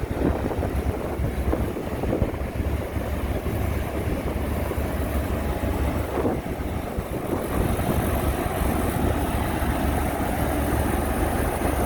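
Diesel engine of heavy earthmoving machinery running steadily, with wind on the microphone. It grows a little louder about two-thirds of the way through.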